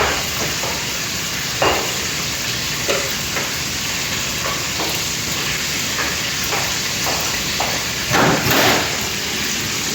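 Chicken deep-frying in hot oil: a steady sizzle with frequent short crackling pops, and a louder surge of sizzling a little past eight seconds in.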